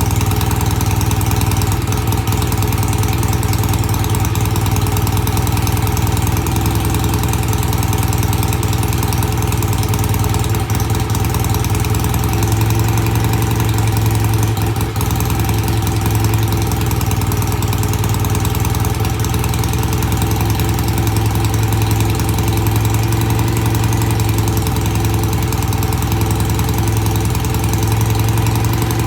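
BSA A65 650 cc parallel-twin motorcycle engine idling steadily on freshly cleaned carburettor pilot jets.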